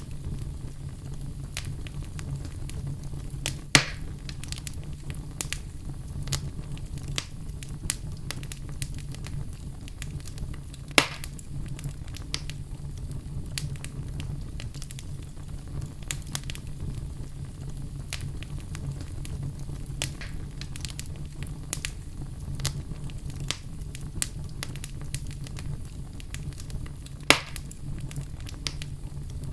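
Wood fire in a fireplace crackling: frequent small snaps over a steady low rumble, with three sharp louder pops about four, eleven and twenty-seven seconds in.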